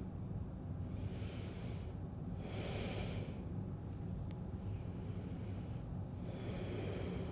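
A person breathing deeply and audibly through the throat in ujjayi breathing, three long breaths with pauses between them, over a steady low hum.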